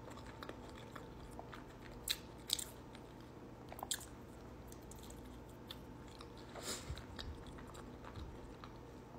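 A person biting into and chewing a soft burrito close to the microphone, with a few short sharp mouth clicks, the loudest about two seconds in, over a faint steady hum.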